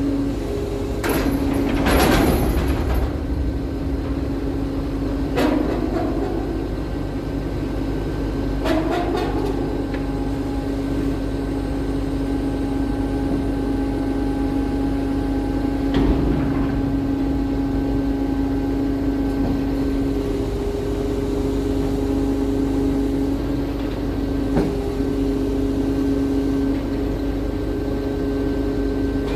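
Scania P380 skip-lift truck running with a steady whine, with a few sharp metallic knocks and clanks scattered through.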